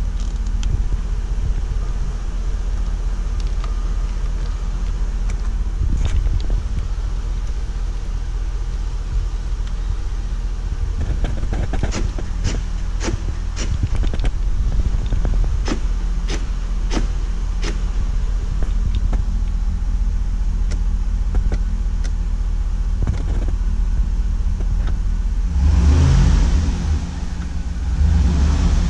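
The 2004 Chevrolet SSR's V8 runs at low speed, heard from inside the cabin. A run of sharp clicks comes in the middle, and there is a louder burst of sound near the end.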